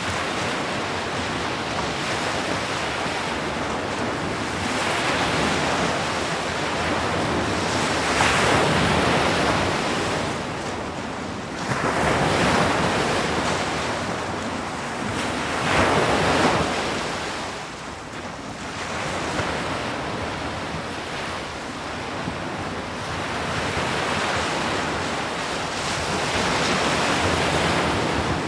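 Ocean waves breaking on a shore, a continuous wash of surf that swells and ebbs every few seconds, with wind on the microphone.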